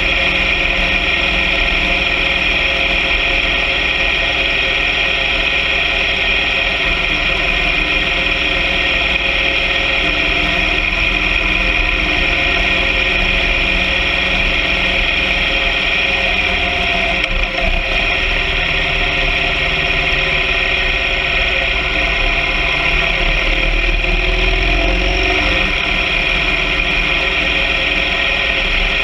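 Motorcycle sidecar rig's engine running steadily on the move, with wind noise on the microphone; the sound dips briefly about two-thirds of the way through.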